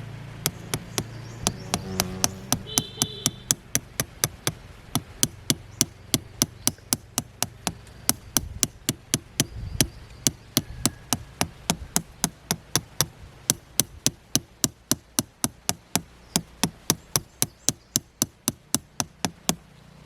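Hand hammer striking metal in a steady rhythm, about three sharp blows a second.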